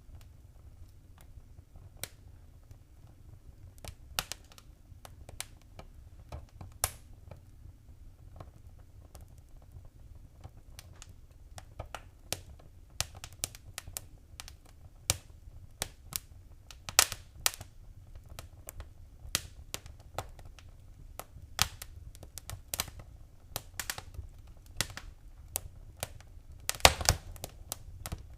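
Wood fire crackling in a fireplace: irregular sharp pops and snaps over a low steady rumble, coming more often in the second half, with the loudest snaps about 17 and 27 seconds in.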